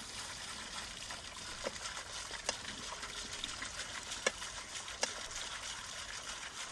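Water running and trickling steadily, the flow let loose to drive a water-powered rotisserie, with a few short sharp clicks scattered through it.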